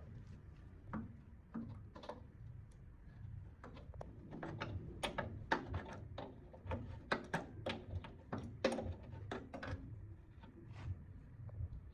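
Irregular clicks and knocks of hand work on compressor parts, coming thickest through the middle, over a low steady hum.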